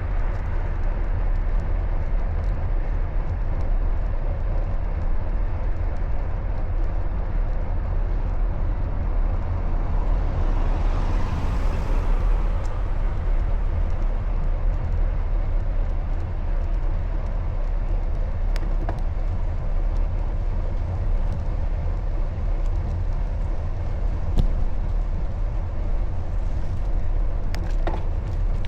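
Steady road and traffic noise heard from a moving bicycle, with a heavy low rumble throughout. A vehicle passes about eleven seconds in, and a few sharp clicks come near the end.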